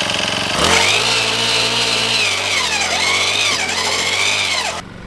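Small two-stroke engine of a post-hole auger revving up about half a second in and running hard, its pitch wavering as the auger bites into rocky clay, then dropping back to idle near the end.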